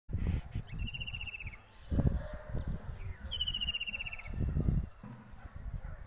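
A bird singing a rapid trill of evenly repeated notes, about a second long and falling slightly in pitch, given twice about two and a half seconds apart. A low rumbling noise runs underneath, louder at moments.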